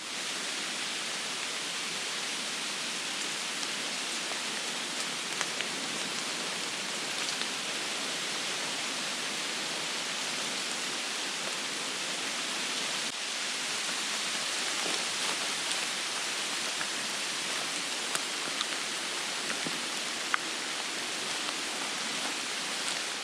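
Steady, even hiss of water with a few faint scattered ticks.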